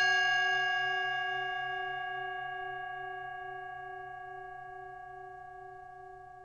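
A struck meditation bell ringing out and slowly fading away, its tone wavering gently as it dies down.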